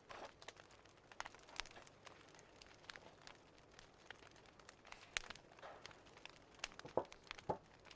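Wood fire crackling faintly, with irregular small pops and snaps and a couple of sharper pops near the end.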